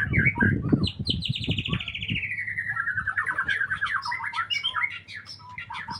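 Songbird singing: a long, rapid trill that falls steadily in pitch starts about a second in, followed by quick, varied chirps. A low rustling clatter runs under the first second.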